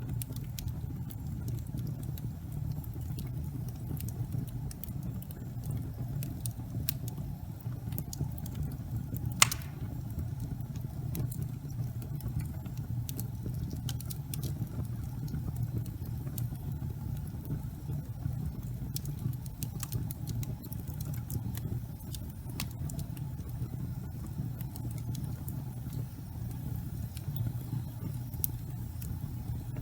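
Fire burning in a fireplace: a steady low rumble of flame with scattered small crackles and pops, and one sharper pop about a third of the way in.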